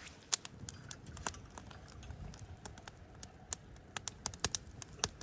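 Wood campfire crackling, with irregular sharp pops and snaps, several each second.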